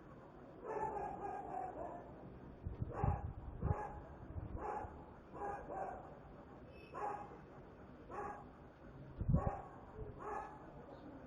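A dog barking repeatedly, about a dozen short barks at irregular intervals of roughly a second, the loudest about nine seconds in.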